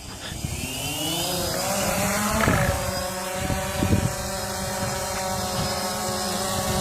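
Phantom quadcopter drone's electric motors and propellers spinning up: a whine that rises in pitch over about two seconds, then settles into a steady hum as they idle. A couple of low thumps come partway through.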